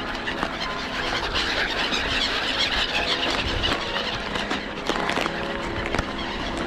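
A flock of gulls calling, many high cries overlapping one another, over a faint low steady hum.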